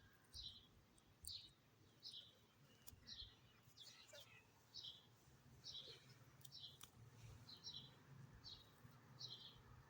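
Faint, regular bird chirps, a short high chirp a little more often than once a second, with a few faint clicks now and then.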